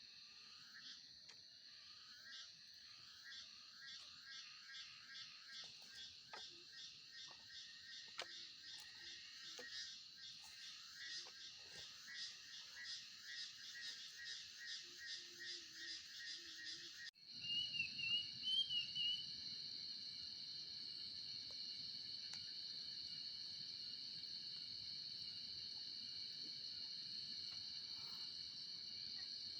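Night chorus of frogs and insects: a steady high trill under a pulsing rhythm of calls. About halfway through it cuts abruptly to a steady cricket trill, with a brief warbling call just after the change.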